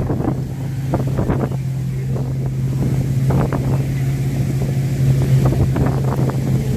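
A steady low engine drone, with wind rumbling on the microphone.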